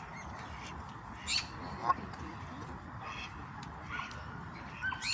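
A few short, sharp bird calls, about five spread over the few seconds, over a steady outdoor background hiss.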